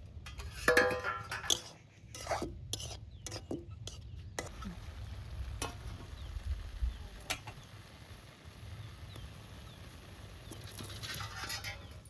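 A utensil stirring and scraping food in a cooking pot, with clinks against the pot, over a steady faint sizzle. The stirring stops after a few seconds, leaving the sizzle and an occasional click, and picks up again near the end.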